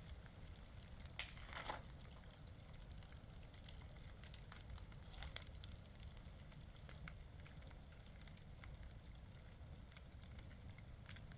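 Outdoor bonfire crackling, with a couple of louder sharp pops about a second in and scattered small snaps after. A steady low rumble runs underneath.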